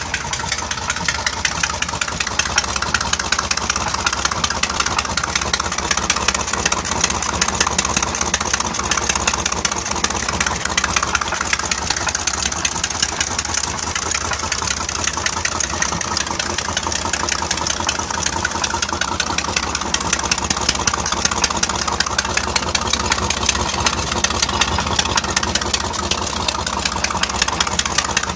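Mercruiser 4.3L V6 marine engine idling steadily with a fast, even ticking knock. The owner is unsure whether it is rod knock or a bad exhaust gasket.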